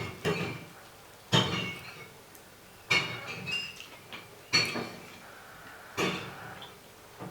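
Eating crispy sauce-coated Korean fried chicken close to the microphone: a sharp crunch or chewing sound about every second and a half.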